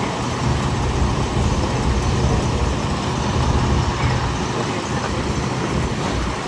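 Steady road-vehicle noise: a low engine rumble with traffic hiss, no sudden events.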